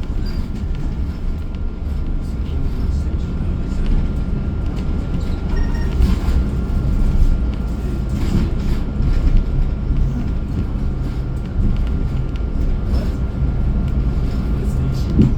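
Steady engine and road rumble with a low hum, heard from inside a moving transit bus, with a few brief rattles and knocks.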